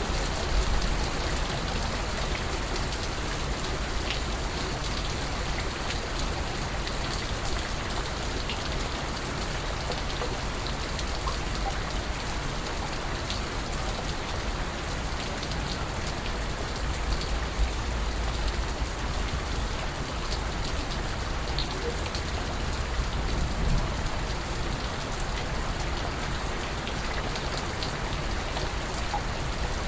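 Steady rain falling on surfaces, a continuous even hiss with scattered individual drips and drops landing.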